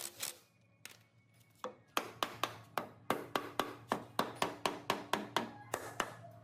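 A fast, even run of sharp taps, about five a second, starting about two seconds in after a few single knocks, with a faint ringing tone under them.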